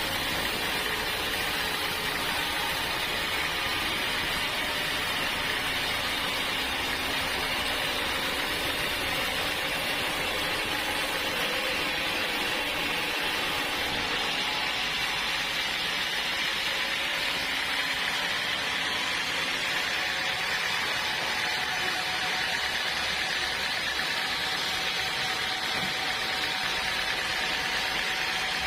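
Sawmill saw running steadily through a hard acacia log, a constant mechanical whir and rasp of the blade in dense wood.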